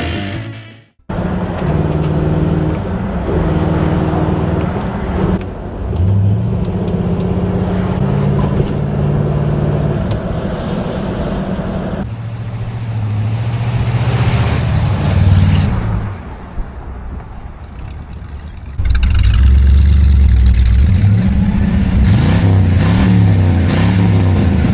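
Classic car engines idling and revving, heard in several short clips that cut abruptly from one to the next. Near the end the revs rise and fall repeatedly.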